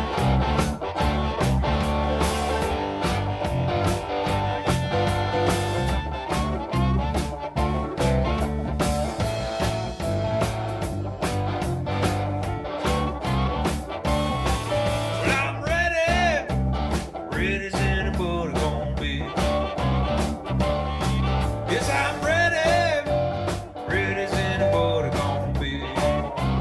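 A band playing an instrumental blues-rock passage with a steady beat, bass and guitar. A wavering, bending lead line comes in about halfway through and again near the end.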